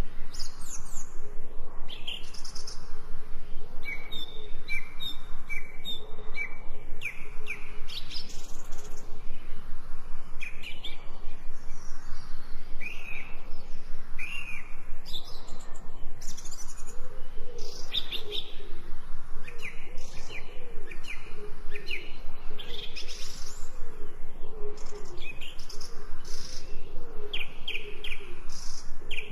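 Songbirds chirping repeatedly in short, high calls, with a lower warbling call joining partway through, over a steady background hiss.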